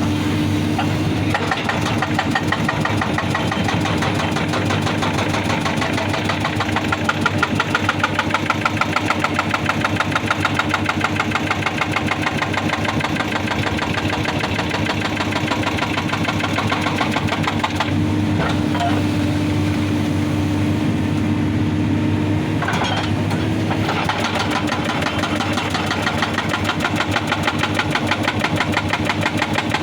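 Excavator-mounted hydraulic rock breaker hammering rapidly and steadily against rock over the running diesel engine of the excavator, with brief changes in the hammering twice.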